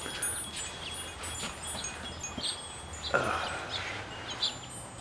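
Wind chimes tinkling, with scattered high ringing notes, and a brief rustling noise about three seconds in.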